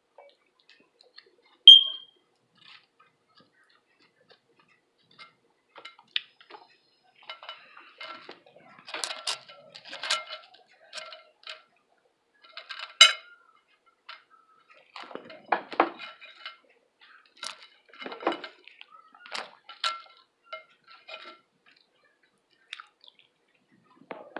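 Metal cutlery clinking and scraping on a plate, with one sharp ringing clink about two seconds in and irregular clatter through the middle.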